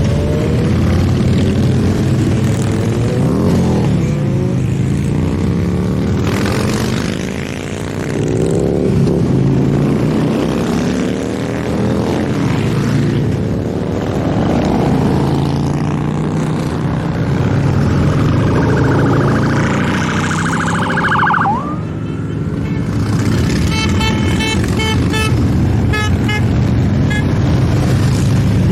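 A steady stream of motorcycles riding past, their engines rising and falling in pitch as each goes by. About two-thirds through, a high siren-like tone ends in a sharp falling sweep, followed by a run of rapid short beeps.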